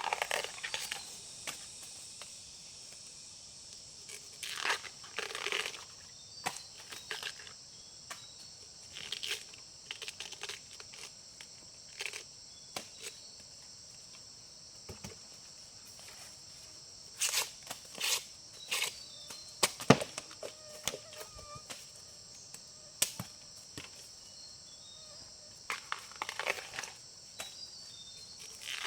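Insects trilling steadily in a high chorus, with irregular bursts of rustling, crunching and snapping from leaves and plant stems being trodden or broken.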